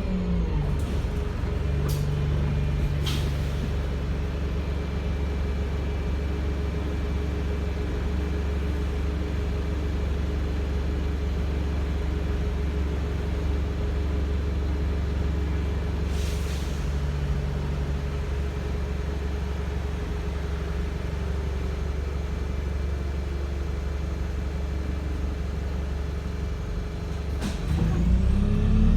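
Wright StreetLite single-decker bus heard from on board: the engine winds down as the bus stops, then idles steadily. About halfway there is a short hiss of air. Near the end the engine revs up again as the bus pulls away.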